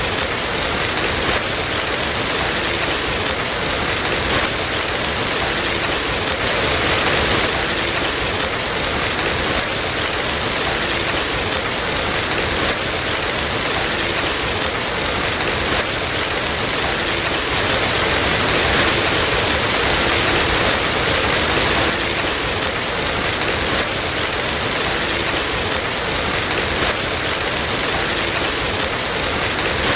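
Steady, dense rain falling, a constant hiss of drops that swells a little past the middle.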